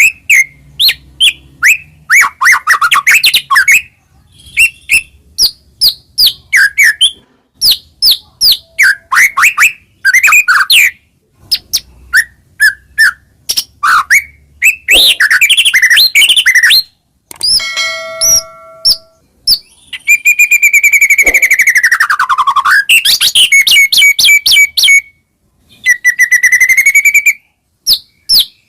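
White-rumped shama (murai batu) singing loudly: a fast, varied song of quick chirps and whistles, rich in mimicked phrases (isian), broken by short pauses. About twenty seconds in comes a long falling whistle, followed by runs of quickly repeated notes near the end.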